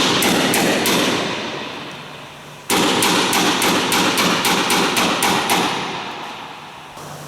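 Rapid hammering on metal, about four blows a second, in two runs with a short pause between, while stubborn old screws are being freed from the Lancaster's wing structure.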